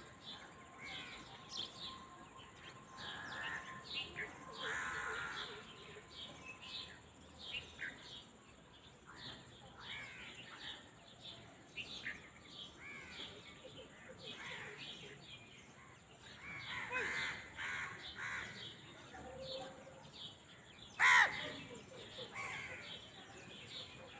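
Outdoor birdsong: many quick, short chirps from several birds throughout, over a thin steady high tone. There is one loud, harsher call near the end.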